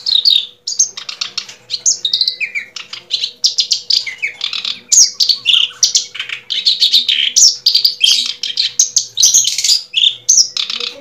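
Small birds chirping continuously, many quick overlapping chirps with hardly a break, over a faint steady hum.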